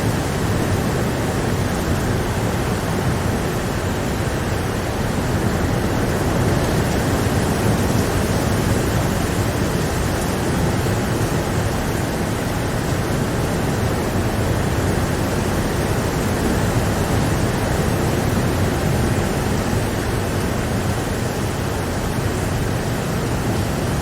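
Steady rain falling in an even hiss with no single drops or thunder standing out.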